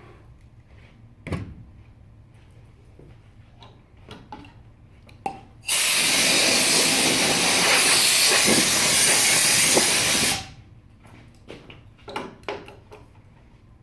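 A loud steady hiss of a pressurised jet, a spray or compressed air, that starts abruptly about six seconds in, runs for about four and a half seconds and cuts off suddenly. A few light clicks and knocks before and after.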